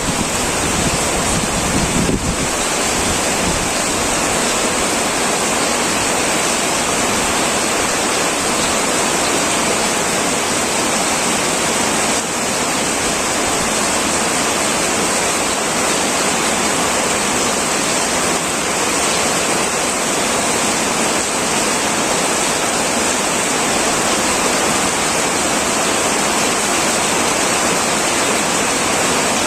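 Heavy rain pouring steadily on a tin roof, an even, loud hiss of drops. A low rumble beneath it stops suddenly about two seconds in.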